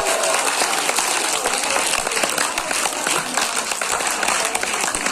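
Audience applauding: many hands clapping steadily at the end of a song.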